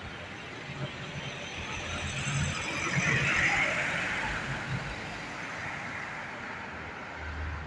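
A road vehicle driving past: engine and tyre noise that swells to a peak about three seconds in, then fades as it moves away.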